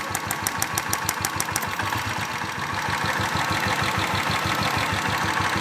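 Royal Enfield Classic single-cylinder engine idling with a rapid, even ticking from the evaporative purge valve clicking open and shut, about five or six ticks a second; the ticking stops under two seconds in, leaving only the engine idle. The tick is from the purge valve, not the engine's cam or hydraulic tappets.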